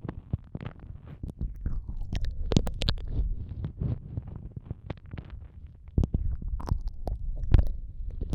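ASMR ear-eating mouth sounds: wet licking, sucking and smacking right against the microphone, a dense irregular run of clicks and pops over low muffled thuds.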